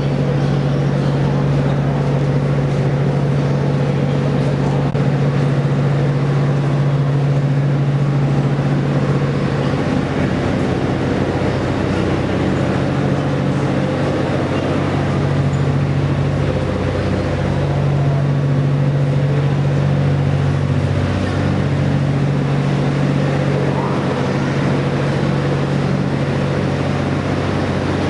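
A stationary train's steady mechanical hum, its onboard equipment running, with a low drone that dips and returns twice in the second half.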